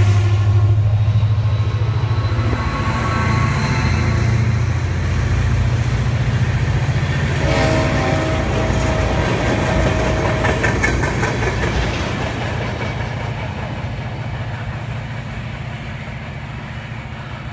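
Freight trains passing close by: steel wheels on rail rumbling and clattering under autorack cars and then tank cars. A short steady pitched tone sounds about eight seconds in. The rumble fades over the last few seconds as the train moves away.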